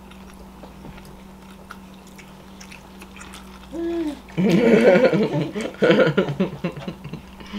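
Quiet chewing with small mouth clicks of someone eating a sandwich and fries, over a steady low hum. Just before halfway there is a short hummed "mm", then a few seconds of loud, wordless voice sounds.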